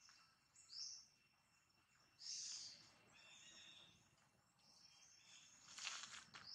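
Faint wild birds chirping in the forest: several short, high calls a second or so apart. Brief rustling sounds come in near the end.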